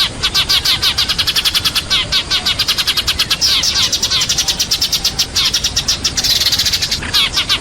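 A flock of sparrows chirping rapidly and without pause, several chirps a second, thickening into overlapping chatter twice. This is the flock-gathering call used as a lure to draw sparrows in.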